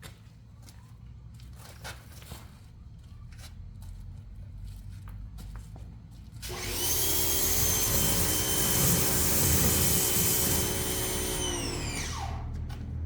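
Ryobi pressure washer starting up about six seconds in, its motor and pump running with a loud hiss for about five seconds, then shutting off as the motor winds down with a falling pitch. Before it, a low hum with a few faint clicks.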